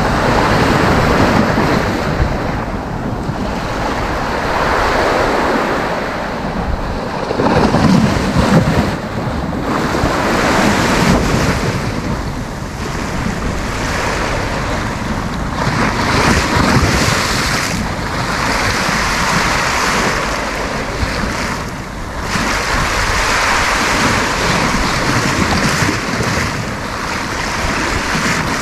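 Sea waves breaking and washing up the beach in a steady, continuous wash that swells and eases every few seconds, with wind buffeting the microphone.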